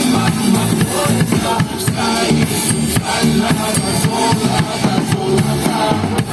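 A drum kit played live over loud recorded dance music, with kick drum, snare and cymbals keeping a steady beat.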